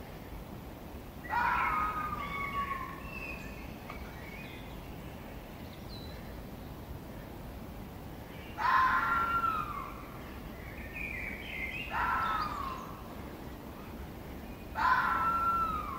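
A bird's call, a short falling whistle, repeated four times over steady low background noise, with fainter chirps in between.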